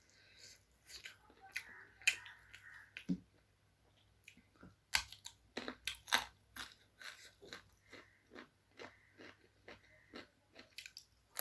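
Close-miked eating sounds: a person chewing and biting chicken curry with rice, with sharp crunchy clicks. The clicks thin out for a moment about a third of the way in, then come quickly, two or three a second.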